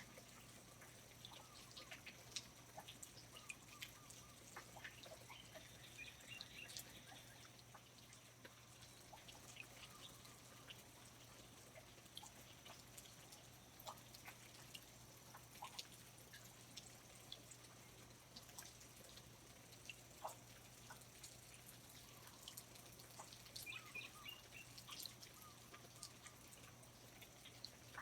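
Faint rainforest ambience: irregular drips of water ticking, with a few short high chirps now and then.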